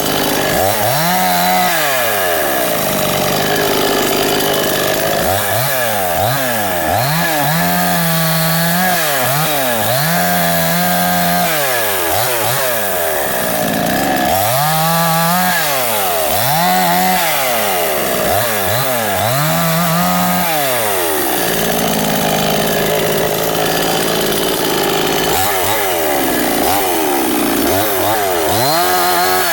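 Salemmaster gasoline chainsaw running, its engine speed rising and falling over and over, every second or two, as the throttle is worked.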